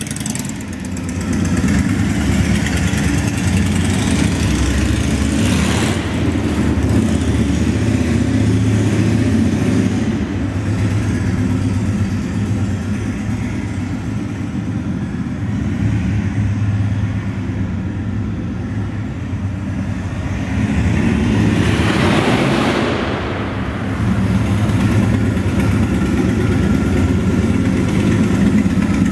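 Honda Shadow VT750DC's V-twin running through a Cobra Street Rod aftermarket exhaust, idling with a few throttle blips that raise the level, the clearest about two-thirds of the way through. The exhaust echoes off the concrete of a parking garage.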